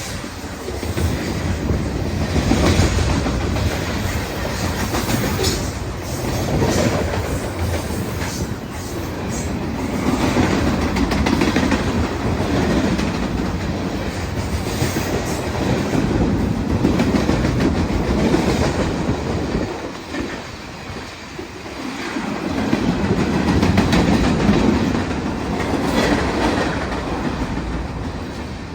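Freight train cars rolling past, wheels clattering over rail joints in a steady rumble that swells and eases, dipping for a moment about three quarters of the way through.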